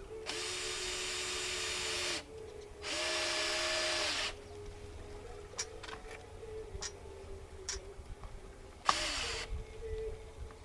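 Power drill driving a screw to hold a rail in place, in two runs of about two seconds and a second and a half, its motor whine rising at each start and falling at each stop. A few light clicks follow, then one more short burst near the end, with the screw left short of fully tight.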